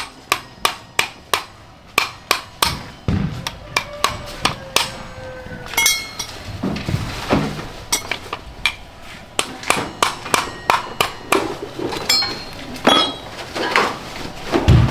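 Hammer striking metal repeatedly during motorcycle repair work, about two to three blows a second, some blows ringing briefly.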